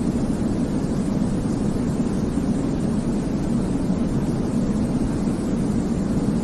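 Steady white noise for infant sleep, weighted toward the low end: an even, deep rumble with a softer hiss above it, unchanging throughout.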